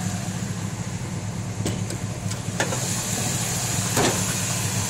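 1985 Chevy C10's 350 V8 idling with a loping idle, heard close under the open hood. A few light knocks sound over it, and a steady hiss comes in a little past halfway.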